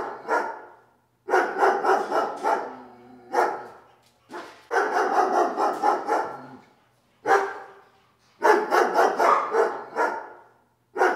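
A dog barking in rapid bouts of several barks each, about three bouts with short pauses between them.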